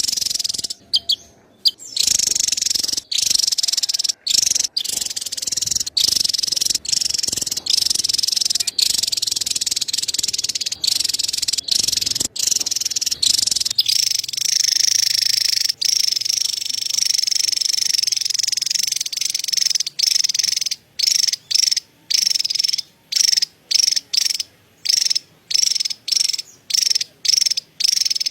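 Javan tesia giving its high-pitched, rapid chattering trill. It comes in long runs with brief breaks, then from about 20 seconds in as short bursts about twice a second.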